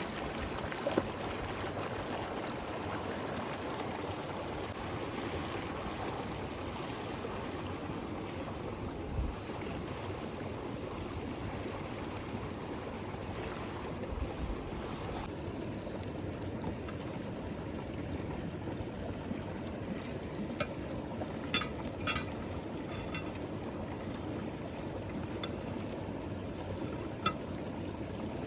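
River water flowing steadily, with a few sharp ticks in the last third.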